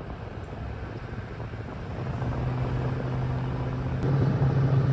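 Pickup truck driving slowly, its engine hum and road noise heard from inside the cab; it gets louder about two seconds in and again about four seconds in.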